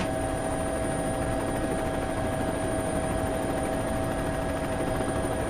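A steady, unchanging engine drone with several held tones and an even rushing noise beneath.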